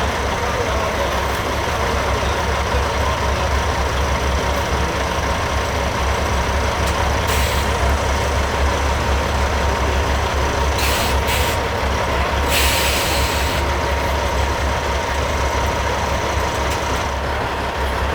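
Diesel engines of custom Peterbilt semi trucks running with a steady low rumble. Air-brake hisses come four times in the middle, the last about a second long.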